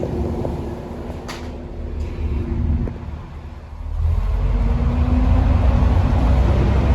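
Bus engine heard on board, running under load, dropping away briefly around three and a half seconds in, then pulling hard and louder from about four seconds with a faint rising whine. The title calls this bus a 'hoover', enthusiasts' word for a vacuum-cleaner-like whine. A short sharp click sounds about a second in.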